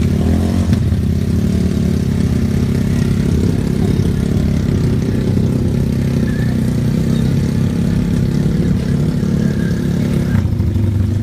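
Superbike engines running steadily, a loud, even low drone without clear revs.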